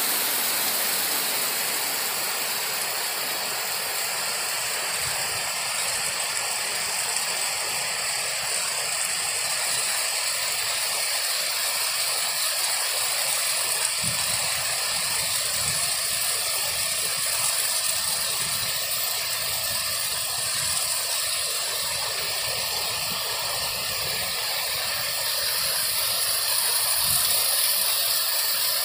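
Heavy monsoon rain pouring steadily onto bamboo foliage and wet ground, an even, unbroken hiss. From about halfway on, a few brief low thumps sound under it.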